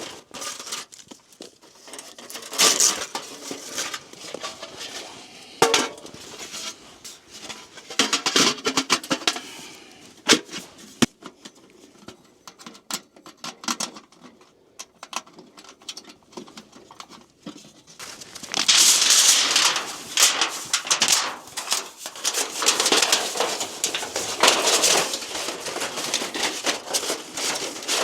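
Camping gear being handled and set up: bouts of rustling fabric and clattering, with scattered sharp clicks in the middle and a longer, denser stretch of rustling in the second half.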